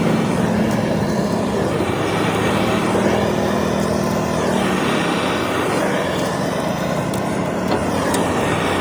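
Steady mechanical noise with a low hum that wavers slightly in pitch.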